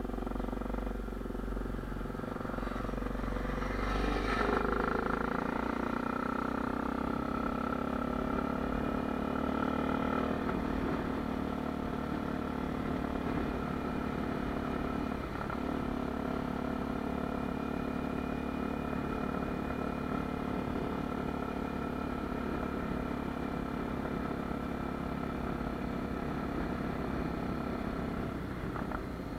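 Honda Tornado 250's single-cylinder four-stroke engine running with a steady note. It picks up slightly about four seconds in and eases back about ten seconds in.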